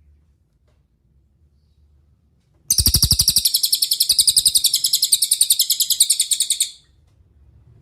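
A cililin songbird singing one rapid, high-pitched trill of about ten notes a second, starting nearly three seconds in and lasting about four seconds before stopping abruptly.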